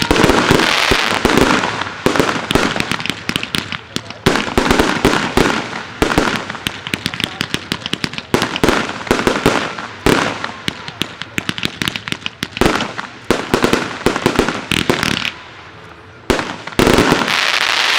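Aerial fireworks display: a dense barrage of shell bursts, bangs and crackling stars going off in quick clusters. There is a short lull near the end, then another loud burst.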